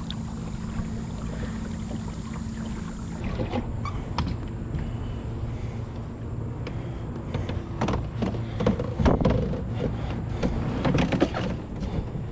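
Water and wind noise around a kayak, with irregular knocks and splashes from gear being handled at the boat, busiest and loudest a little past the middle.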